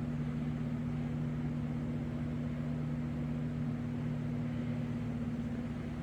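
Steady low mechanical hum with two constant tones and a light hiss: the room tone of a large indoor space.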